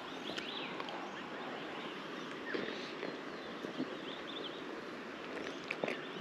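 Steady outdoor background noise with a few short bird chirps and scattered light clicks.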